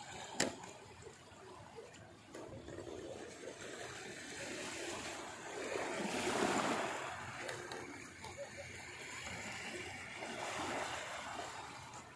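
Sea waves washing on a beach, one wave swelling up about six seconds in, with a single sharp click near the start.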